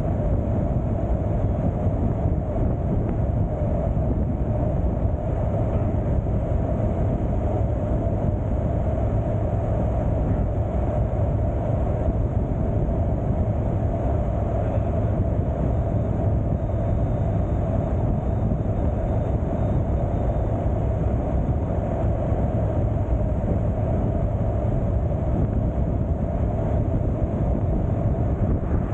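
Motorcycle riding at a steady cruise: the engine's steady drone mixed with road and wind noise, unchanging throughout.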